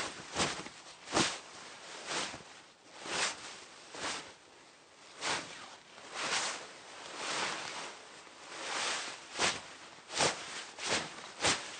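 Rustling and swishing of hanbok fabric as the wearer moves: a run of short, irregular swishes, with a few longer, drawn-out ones in the middle.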